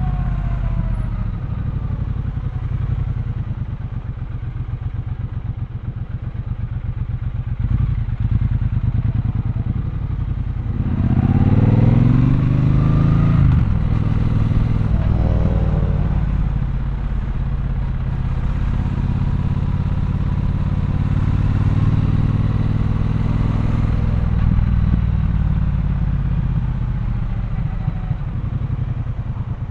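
Triumph Bonneville Bobber's 1200 cc parallel-twin engine, heard from the rider's position. It runs low and lumpy at first, then accelerates about eleven seconds in with the pitch rising, changes gear and climbs again. It then holds a steady cruise and eases off near the end.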